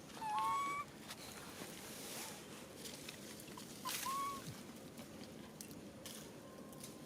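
Two short, high animal calls, one about half a second in and another about four seconds in, over a steady outdoor background.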